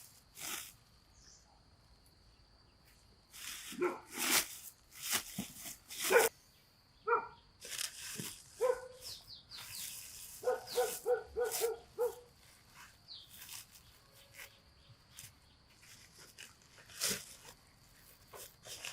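An animal giving short repeated calls, with a quick run of about six in a row around the middle, among scattered sharp knocks and rustles.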